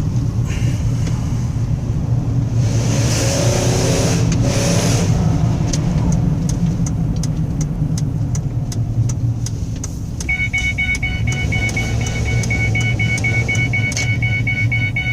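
A 2005 Ford Escape's engine drones steadily at full throttle while the vehicle barely crawls, a sign that the automatic transmission is slipping. Rapid regular ticking comes in about six seconds in, and a fast-pulsing high electronic chime starts about ten seconds in.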